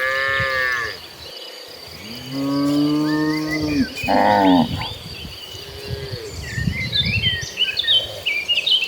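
Cattle mooing, four moos in turn. One is held about two seconds, and a higher-pitched call follows right after it.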